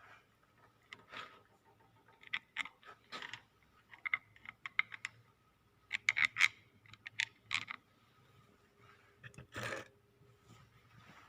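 Irregular light clicks, taps and scrapes of the small metal parts of a dismantled steering universal joint being handled while grease is worked into them, with a longer scrape near the end.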